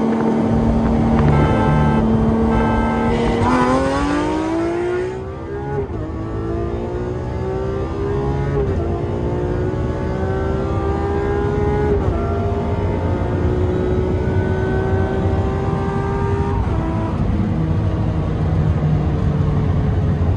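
Supercar engine going from a steady cruise to full-throttle acceleration, heard from inside the cabin. After about three seconds the engine note rises hard, then climbs through several gears, dropping sharply at each of about four quick upshifts.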